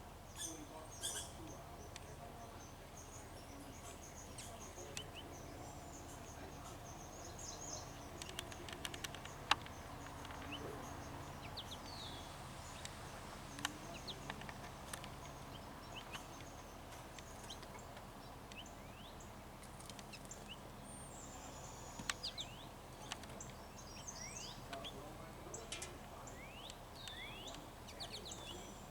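Small birds chirping, with scattered high calls and short downward-sweeping notes, and a few sharp clicks over a steady faint background hiss.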